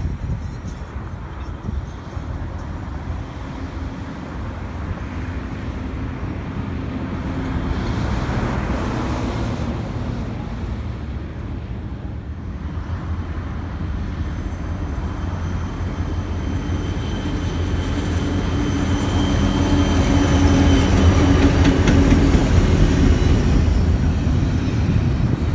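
Diesel train running slowly past: a low engine and rail rumble that grows louder toward the end, with thin high steady tones joining about halfway.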